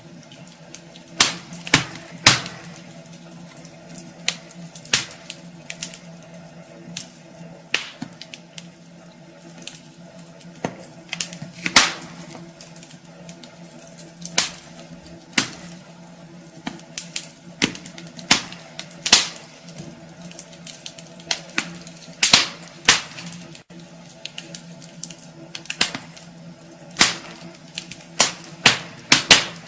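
Wood fire crackling in a fireplace: irregular sharp pops and snaps, often in quick clusters, over a low steady hum.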